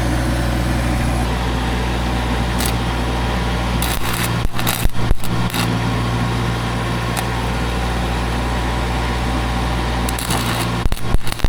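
Electric welding on a steel boom pin: a steady machine hum under a continuous crackling hiss. Bursts of irregular crackles and pops break in about four to five seconds in and again near the end.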